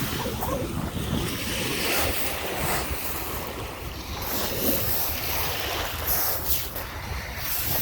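Lake Michigan waves washing onto the shore, with wind buffeting the microphone.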